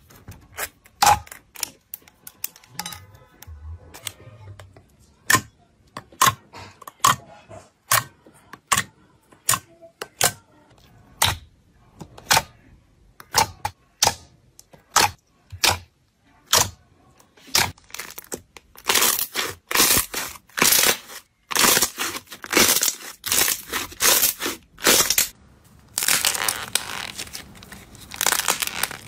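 Slime being squeezed and pressed by hand, giving sharp clicking pops one after another. From about two-thirds of the way in, these give way to denser, louder crackling and crinkling.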